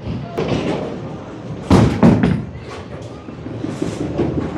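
Bowling alley din of balls rolling and hitting pins, with two loud knocks about a third of a second apart a little under two seconds in.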